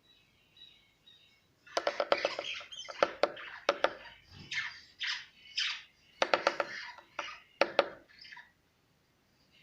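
Weaver bird attacking its reflection in a window pane: sharp taps on the glass mixed with harsh squawking calls, in repeated bursts for about seven seconds. Soft chirping comes before the bursts begin and returns after them.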